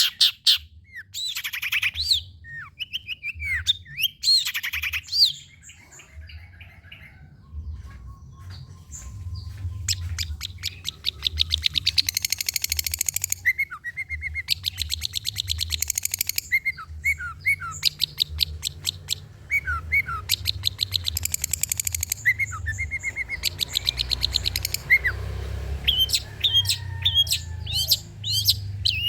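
Long-tailed shrike (cendet) singing a varied, rambling song: rapid chattering trills alternating with short down-slurred whistles and sharp chirps, over a low steady hum.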